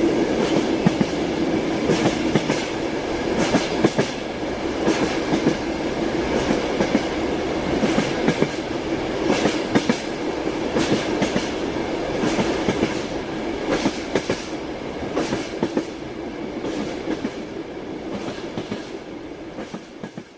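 Train wheels knocking over rail joints in an irregular clickety-clack over a steady rumble and hum of the moving car. The sound fades out near the end.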